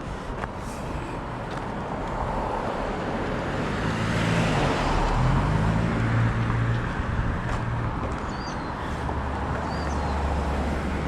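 Road traffic: a vehicle passing by, its engine and tyre noise swelling to a peak about halfway through and then fading, with another engine's low steady hum near the end.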